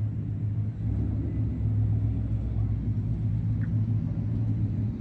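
Car engine idling nearby with a deep, steady rumble.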